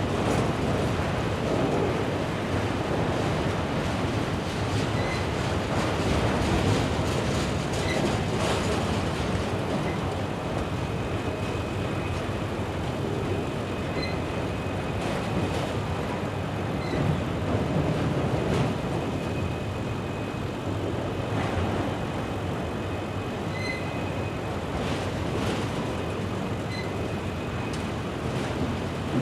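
Freight train passing, its cars rolling by with a steady rumble and scattered clicks of the wheels, and a faint high squeal through the middle stretch.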